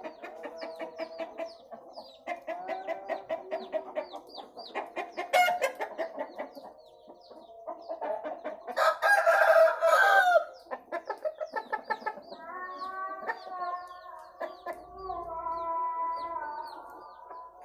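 Chickens clucking in quick runs, with a loud crow about nine seconds in and long drawn-out rooster crows near the end. Thin high chirps sound throughout.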